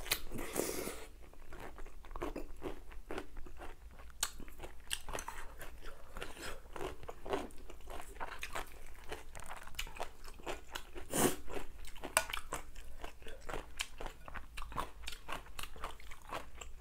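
Close-miked crunching and chewing of seokbakji (large-cut radish kimchi): a steady run of crisp crunches as a chunk is bitten and chewed.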